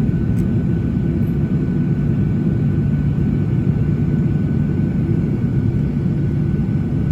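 Steady low rumble inside a Boeing 737-800 cabin while it taxis after landing, its CFM56-7B engines running at idle, with a faint steady whine above the rumble.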